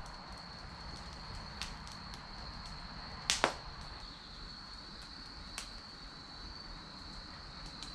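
Campfire of chestnut and cherry firewood crackling, with a few sharp pops and one loud double crack about three and a half seconds in, over a steady high thin tone.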